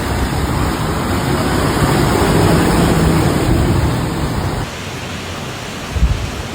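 Steady loud rushing of heavy rain and running floodwater. About four and a half seconds in the sound cuts to a slightly quieter rush, with a single thump about a second later.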